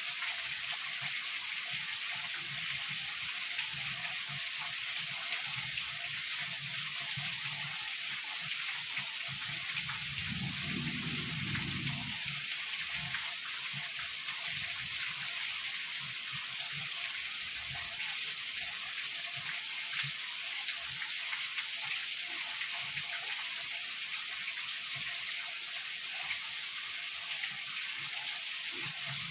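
Heavy rain falling steadily, an even hiss. A brief low rumble comes about a third of the way through.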